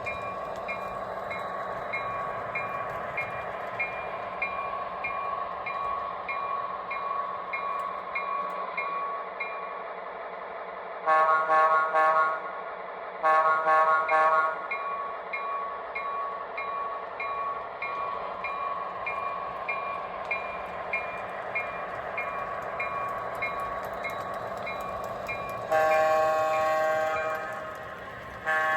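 Model train locomotive's sound-decoder running sound, a steady hum with a light regular tick about twice a second. Two long multi-tone horn blasts come about 11 and 13 seconds in, and another starts near the end.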